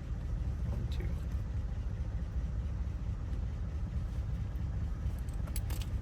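Steady low rumble of an idling vehicle engine, with a few light clicks about a second in and again near the end.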